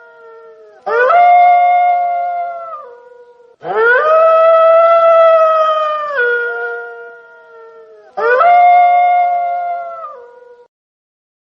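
Wolf howling: three long howls, each rising at the start, holding a steady pitch, then dropping in steps as it fades, with short gaps between.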